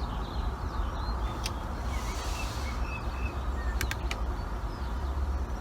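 Outdoor background: a steady low rumble with faint bird chirps and a few light clicks.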